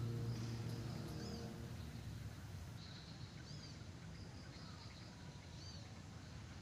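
Faint outdoor ambience with a bird's short, arched chirps repeating every second or two. A low hum fades away over the first couple of seconds.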